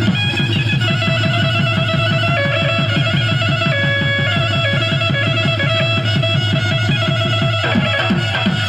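Instrumental Bihu folk dance music: a fast, steady drum beat of about eight strokes a second under a sustained, step-wise melody line. The drum pattern breaks off and changes near the end.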